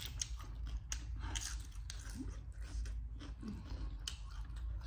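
Close eating sounds: biting and chewing food, with irregular crisp crunches.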